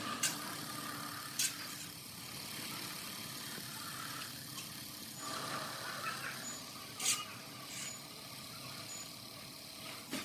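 Steady workshop background noise, broken by a few short, sharp knocks about a second in and again around seven seconds in.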